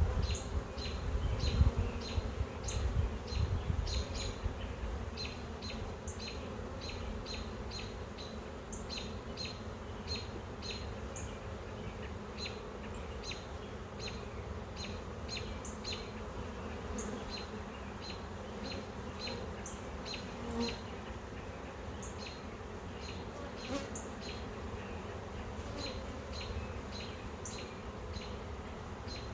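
Honey bees buzzing steadily around an open hive, an even hum, with a quick run of short high chirps over it. Some low rumbling in the first few seconds.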